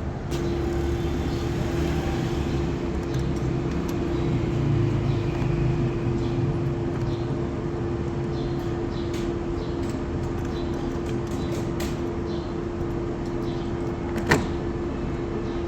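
Steady mechanical hum with a constant whine that switches on abruptly right at the start and holds level, and one sharp click about 14 seconds in.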